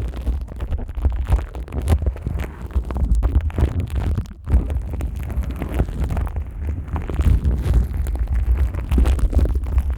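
Rubber-gloved hands rubbing and crinkling plastic wrap stretched over the ears of a Neumann KU100 dummy-head microphone. There is a dense, irregular crackling rustle over a deep rumble from the handling, with a brief lull about four and a half seconds in.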